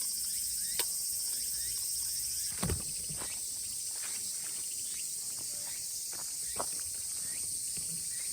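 Steady, high-pitched chorus of cicadas in summer, with scattered short sharp clicks and one low thump about two and a half seconds in.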